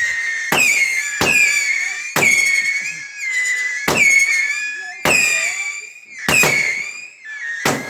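Epic Fireworks Triple Whistle firework shooting off whistling shots one after another, about one a second. Each opens with a sharp crack and then gives a loud, shrill whistle that holds its pitch or sags slightly.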